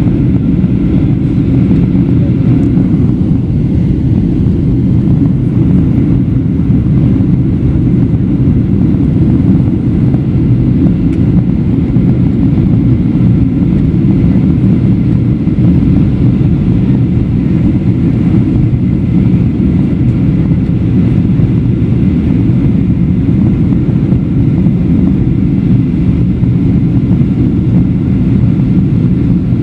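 Steady low rumble inside the cabin of a Boeing 737-700 on final approach: airflow over the airframe and its two CFM56-7B engines running at approach power.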